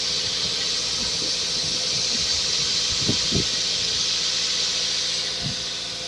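2000 Toyota MR2 Spyder's 1.8-litre four-cylinder engine running at a fast cold-start idle of about 1500 rpm, under a loud steady hiss, with a few soft low thumps.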